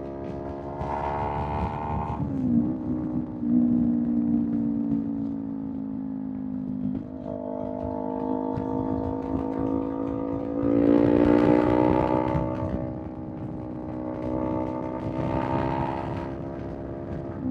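Kawasaki Z400 parallel-twin engine through a Villain M1 aftermarket exhaust, pulling under acceleration. Its pitch climbs and then drops at gear changes about two and seven seconds in, and it grows louder on harder throttle about eleven and fifteen seconds in.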